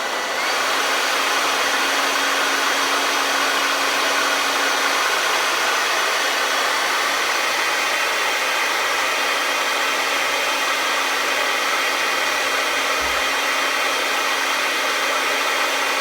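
Hand-held blow dryer running on its high setting: a steady rush of air over the motor's hum, stepping up in loudness about half a second in as it is switched to high.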